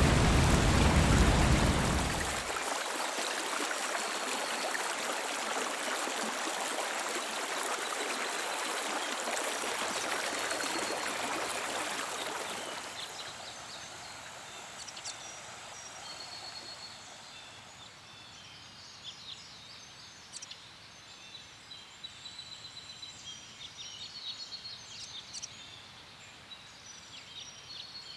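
Steady rushing outdoor noise that fades out after about twelve seconds, leaving quiet natural ambience with scattered short bird chirps.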